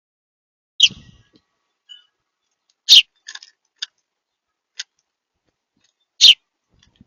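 Small birds at a feeder: three loud, very short, sharp sounds (about a second in, about three seconds in and near the end) with a few fainter ticks between them.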